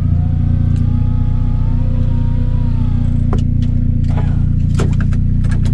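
Mazda Miata's four-cylinder engine running at a steady idle, with several sharp clicks and knocks in the second half.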